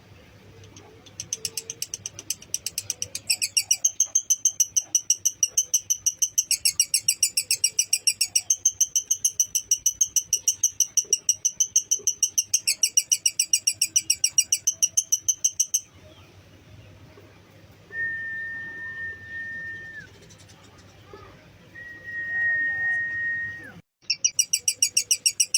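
Lovebird 'ngekek' song: a long, rapid run of shrill, evenly repeated chattering notes that lasts about fifteen seconds and then stops. Two long, steady whistled notes follow, and the chattering starts again near the end.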